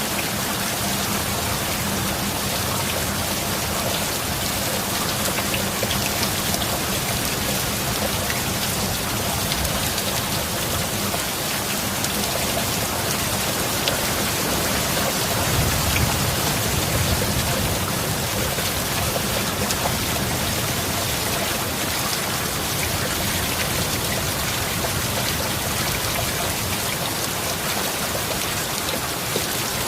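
Heavy rain falling steadily, an even rushing hiss of drops on a surface. About halfway through there is a low rumble of thunder.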